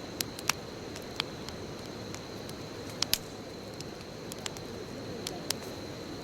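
Wood bonfire burning: a steady low rush of flames with sharp crackles and pops from the burning wood, two close together about three seconds in.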